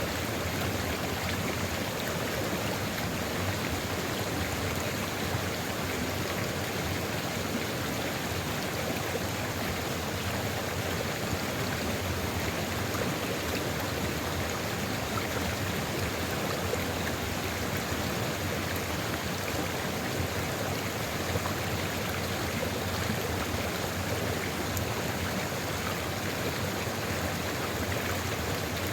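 Sulfur river flowing steadily: an even, unbroken rush of running water.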